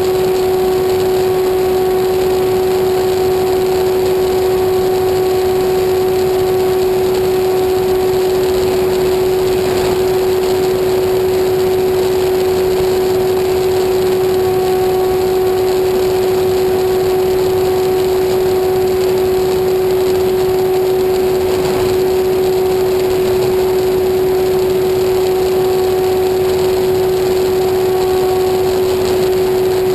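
Engine of a homemade aircraft running at a constant speed: a steady drone held on one strong pitch, with no change in speed.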